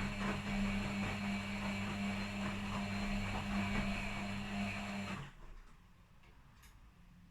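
Washing machine running with a steady electric hum, two low tones over a rushing mechanical noise, which cuts off suddenly about five seconds in.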